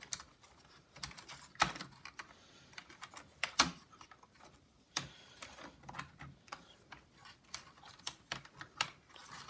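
Irregular light clicks and taps of plastic parts and cables being handled as a laptop's display cables are pulled through their plastic routing guides. Two clicks, about one and a half and three and a half seconds in, are louder than the rest.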